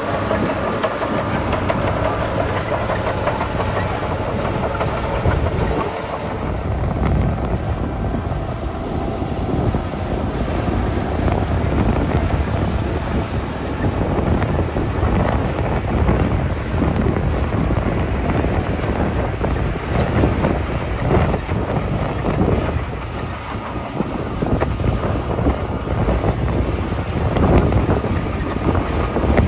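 Komatsu D41P crawler bulldozer working gravel: its diesel engine runs steadily under load with a dense rattle and crunch from the tracks and the pushed gravel. A whine sounds over it for the first six seconds or so, then fades.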